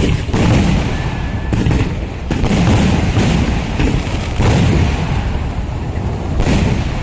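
Traditional Kerala temple fireworks (vedikkettu): a run of loud blasts, roughly one a second, each ringing on briefly after the bang.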